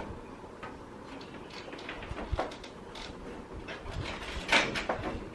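Scattered plastic clicks and knocks from an Epson WorkForce WF-3620 inkjet printer being handled, with the loudest knock about four and a half seconds in.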